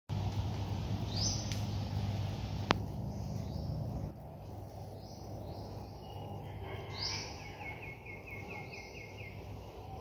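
Birds calling: a short high chirp repeats about every second and a half, and from about seven seconds in comes a run of some nine quick notes. A low hum fills the first four seconds, and a single sharp click sounds near the three-second mark.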